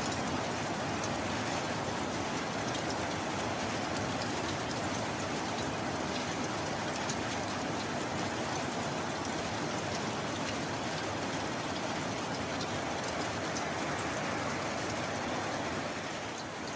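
Steady rain falling, an even hiss with faint scattered drop ticks; no thunder is heard.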